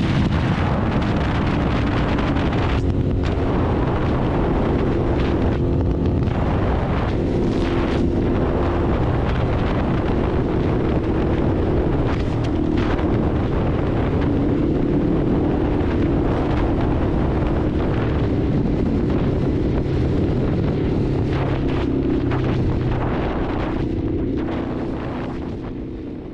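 Ducati Hypermotard's V-twin engine running under way, its pitch shifting with throttle and several brief lifts off the throttle, over wind rushing on the microphone. The sound fades out near the end.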